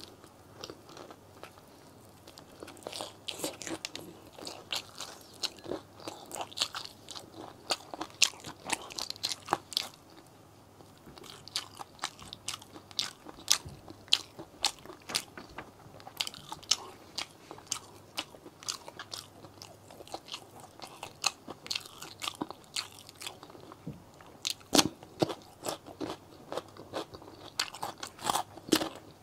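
Close-miked eating: crisp bites and chewing of crunchy fried chicken, a rapid run of crackling crunches with a brief lull partway through. Near the end come louder crunching bites of raw cucumber.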